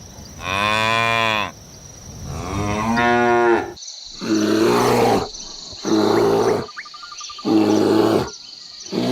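Cattle mooing: two long calls in the first half. Then, in a different recording, rougher calls repeat about every one and a half seconds.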